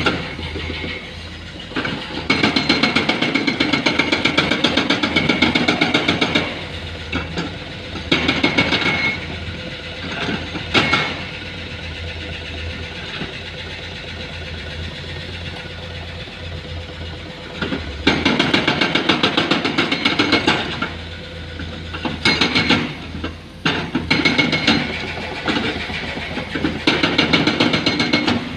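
Hydraulic breaker on a Komatsu excavator hammering rock in bursts of rapid blows, each lasting one to four seconds. Between bursts the excavator's diesel engine runs steadily.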